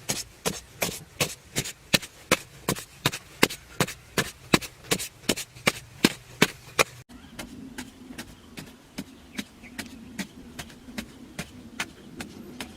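A hand tool chopping with quick, regular strikes, about three a second. Partway through the sound cuts, and the strikes go on more faintly over a low steady hum.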